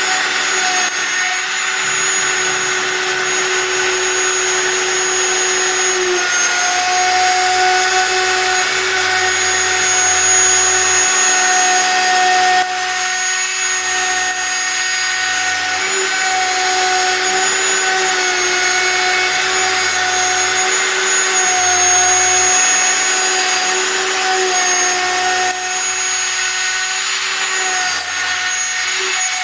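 Home-built CNC router running: a steady high spindle whine, with the stepper motors' low tones starting and stopping every second or two as the axes move.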